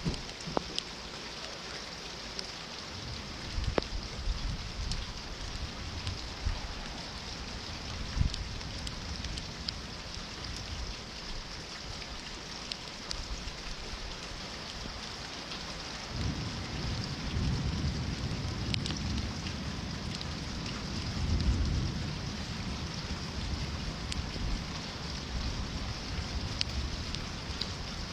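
Steady rain falling, with scattered sharp drop hits. A low rumble rises about halfway through and swells before easing off.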